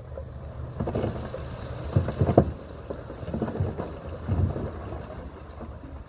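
Heavy diesel earthmoving machinery working, with a steady low engine rumble and several heavy thuds between about one and four and a half seconds in.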